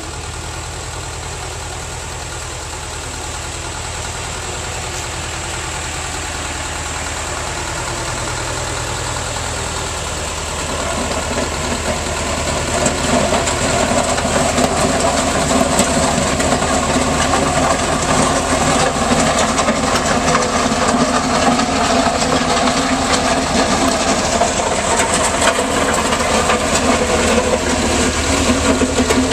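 Tractor engine running steadily, getting louder, with a step up about ten to twelve seconds in.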